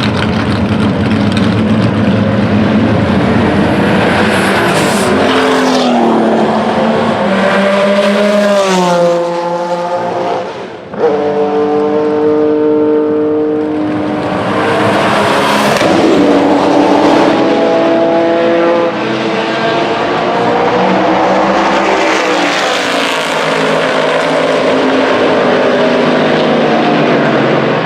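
Vintage race cars running hard on a circuit, several passing in turn. Engine pitch climbs under acceleration and drops at gear changes and as each car goes by. The sound dips briefly and comes back abruptly about eleven seconds in.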